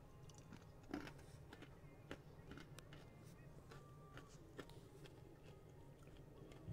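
Faint low rumble of the moving Amtrak Auto Train heard from inside a passenger car, with scattered small clicks and rattles; a sharp click about a second in is the loudest.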